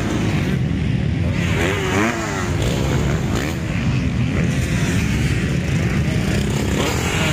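Motocross bikes running on the track, their engines revving up and down, with one rev rising and falling sharply about two seconds in.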